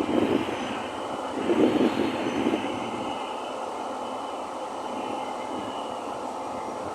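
Train running through a station: a steady rail rumble that swells louder twice in the first two and a half seconds, then holds even.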